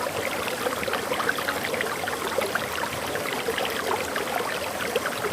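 Small forest waterfall: water pouring and splashing over rocks in a steady, even rush, with a dense patter of little splashes.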